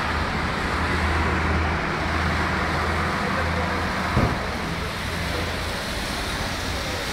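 A car engine idling steadily over road-traffic noise, with one short knock a little past halfway.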